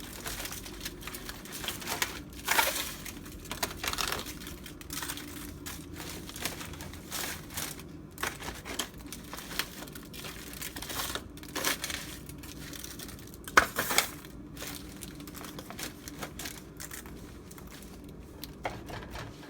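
Crinkling and rustling of hands rubbing a dry spice rub into a rack of baby back ribs, with scattered small clicks and a sharper knock a little past halfway.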